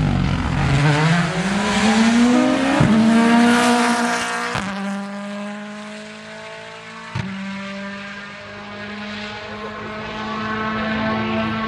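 Rally car passing at speed, its engine note rising as it accelerates hard away, with sharp cracks from the gearchanges or exhaust. The engine then holds a steady note, fading and swelling again near the end.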